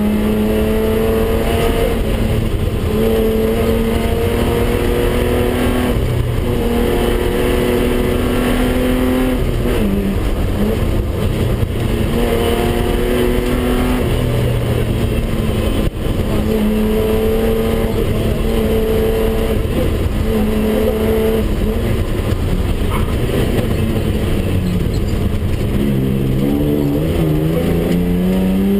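BMW 320/6's straight-six engine heard from inside the cabin, driven hard on a rally stage: the revs hold steady for a few seconds at a time, drop at each lift or gear change, and climb steadily near the end, over constant road noise.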